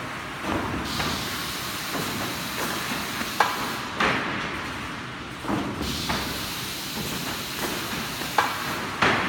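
Automatic loader and sanding line for plywood running: a steady mechanical hiss with irregular sharp knocks and clunks, the loudest about three and a half, four, eight and a half and nine seconds in.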